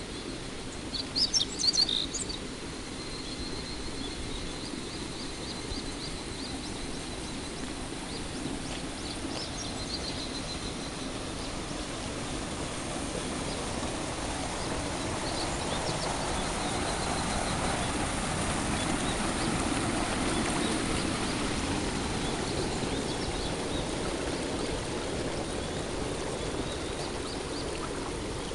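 Early-morning chorus of cicadas, a steady shrill hiss that swells slightly midway. A bird gives a few sharp chirps over it about a second in.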